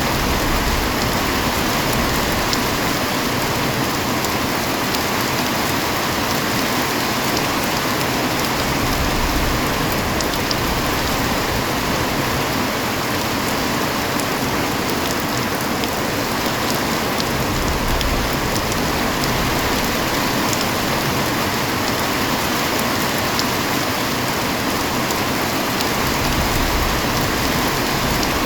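Heavy rain falling steadily, an even hiss of rain on surfaces with scattered sharper drop ticks.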